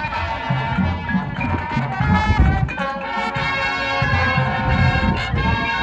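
Marching band playing: brass sustaining chords over drum hits.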